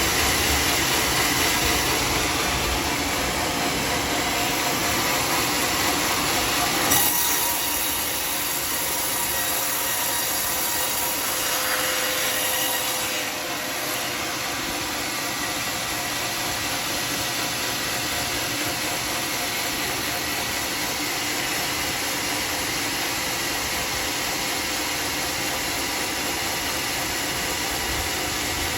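Homemade sawmill's circular saw blade sawing a teak log: a loud, steady, noisy run with a faint whine. The sound thins in the low end and brightens about seven seconds in, then settles again.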